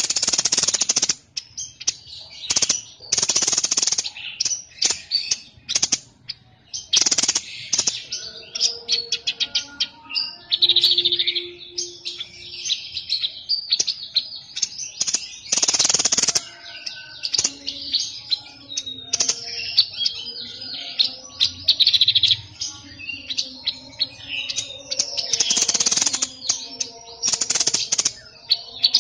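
Songbird of the kind Indonesian bird keepers call a 'sniper' bird, singing a continuous loud stream of rapid high chirps and trills. Several harsh, noisy bursts break in every few seconds. This is song played as tutor song (masteran) for other birds to learn.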